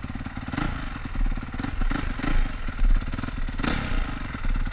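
Motocross bike engine running steadily at low revs, with a few louder knocks during the run.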